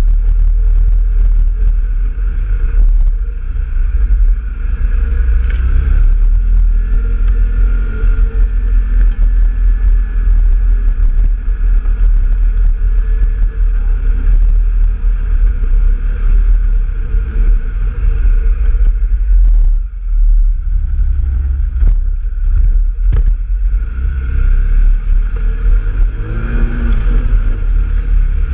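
Off-road trail vehicle's engine running steadily while under way, with a heavy low rumble; it eases off briefly about two-thirds of the way through.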